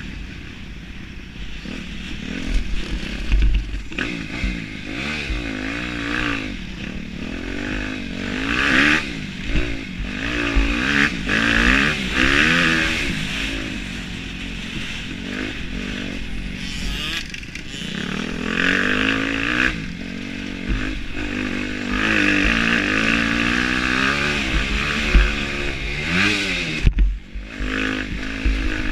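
Motocross bike engine revving up and down over and over as it is ridden, its pitch climbing and falling with each burst of throttle, with low rumbling wind noise on the microphone.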